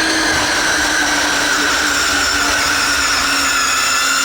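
RC pulling vehicle's motor and drivetrain whining steadily at high pitch under load during a pull, the pitch sagging slightly as it goes.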